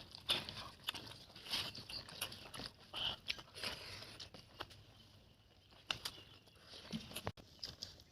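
A person chewing and crunching small fish, with many short wet mouth clicks. The chewing thins out about five seconds in, then picks up again.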